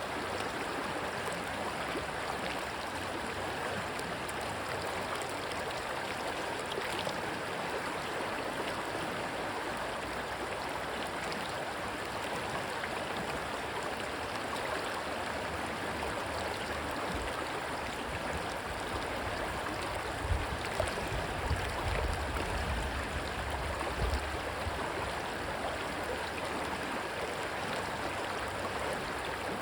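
Rushing stream water, a steady even rush. About two-thirds through, a few seconds of low rumble push up from underneath.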